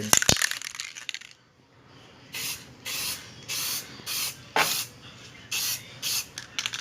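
Spray paint hissing out in short bursts, about two a second, starting about two seconds in: metallic red top coat being sprayed onto motorcycle fairings.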